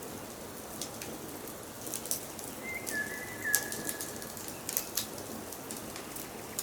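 Wood fire crackling, with sharp pops over a steady hiss. A forest bird whistles a short phrase of a few clear notes about three seconds in.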